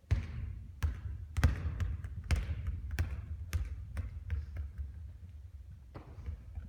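Basketball bouncing on a court, a string of irregular bounces and knocks that start suddenly and thin out and grow fainter toward the end.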